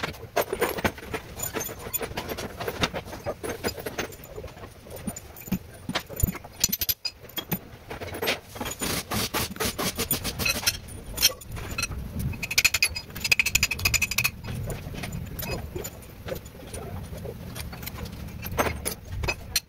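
Repeated metallic clinking and rattling, with a brief high squeal about two-thirds of the way through.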